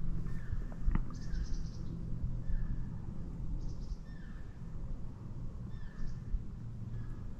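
Small songbirds calling in the woods: repeated short chirps that slide downward in pitch, about one every second or so, with a few higher buzzy notes. They sound over a steady low rumble, and there is a single click about a second in.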